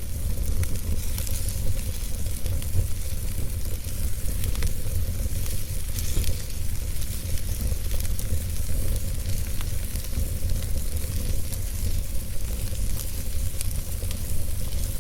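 Fire crackling steadily: many small sharp pops and snaps over a continuous hiss, with a deep low rumble underneath.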